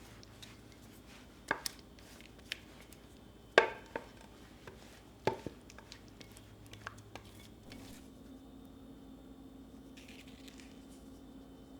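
Irregular knocks and clinks of kitchenware being handled on a counter, the loudest about three and a half seconds in with a brief ring. A faint steady hum starts about eight seconds in.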